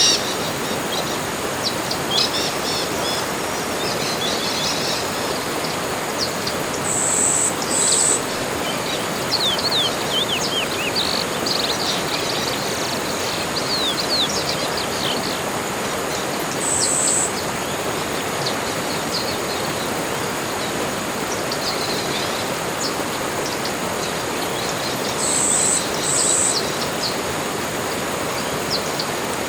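Tropical forest ambience: birds chirping and calling in quick, high notes over a steady rushing background noise. A brief, very high call sounds a few times, twice in quick pairs.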